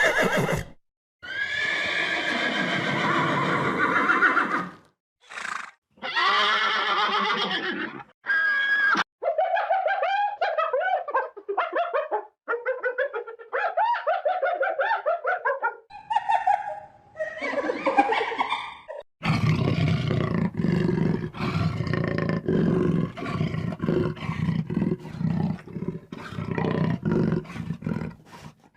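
A series of different animal calls cut one after another, several of them roar-like, ending in a long run of rapid pulsing calls.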